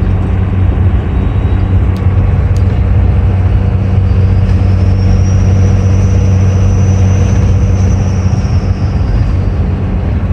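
12-valve Cummins diesel engine with its turbo pulling a heavy trailer at highway speed: a steady deep drone. A high turbo whistle climbs from about four seconds in, holds, then sinks away near the end. Two short clicks come about two seconds in.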